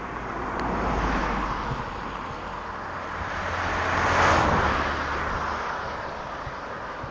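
Road traffic passing by: a rushing tyre-and-engine noise swells and fades twice, the louder pass about four seconds in.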